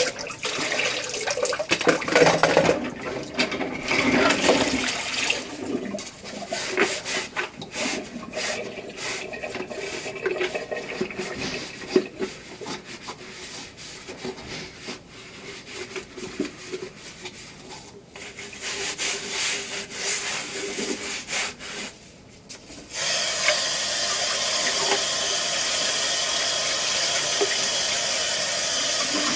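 Dishes being washed. Running water stops at the start, then comes a long stretch of irregular rubbing and clattering, and the water starts running again suddenly about 23 seconds in and runs on steadily.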